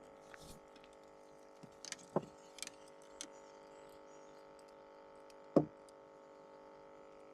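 Scattered knocks and clicks of gear being handled in a boat, as someone looks for pliers to unhook a turtle. The loudest knock comes near six seconds, another about two seconds in, with a faint steady hum underneath.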